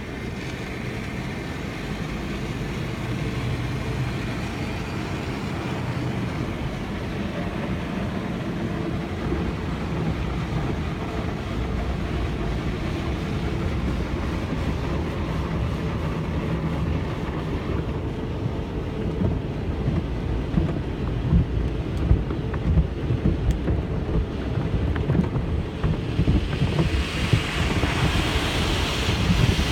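Car wash machinery running with a steady rumble and noisy wash, its low thumping growing uneven in the second half; a hiss like water spray rises about 26 seconds in.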